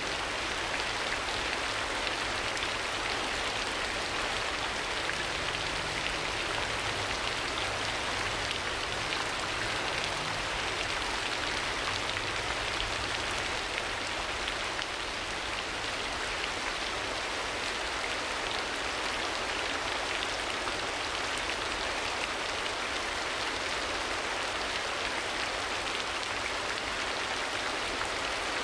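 Steady rain, an even continuous hiss.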